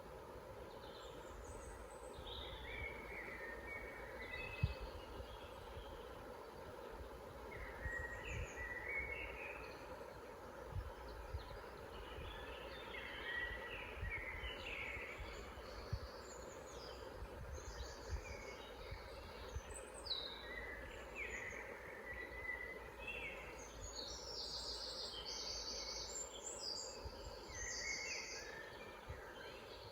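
Several songbirds singing and chirping in short overlapping phrases, thickest in the second half, over a steady low background rumble.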